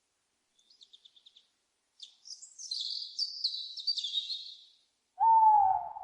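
High-pitched bird chirping and twittering for a few seconds, then a single loud owl hoot near the end, dipping slightly in pitch.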